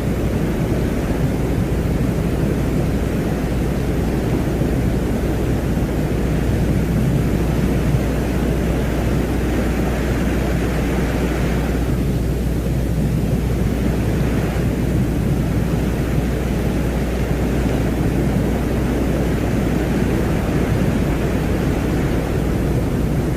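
Space-ambience soundscape presented as the sound of Venus: a steady, deep rumbling noise with a windy hiss over it, the hiss thinning for a couple of seconds about halfway through.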